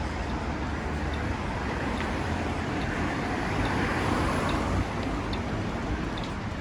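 Road traffic on wet asphalt: a steady hiss of tyres and engines, swelling as a vehicle passes about four seconds in.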